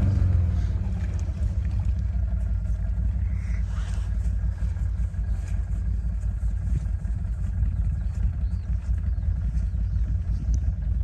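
Quad bike (ATV) engine idling, a steady low rumble.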